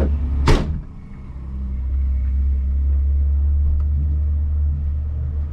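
Car engine running with a steady low drone. A sharp knock comes about half a second in; the sound then drops briefly and builds back up.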